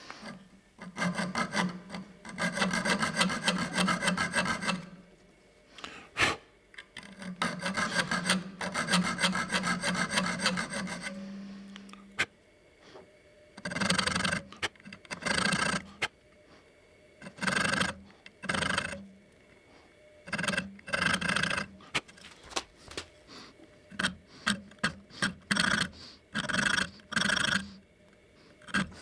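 Hand filing: a file rasping in two long runs of quick back-and-forth strokes, then in separate strokes of under a second each with short pauses between.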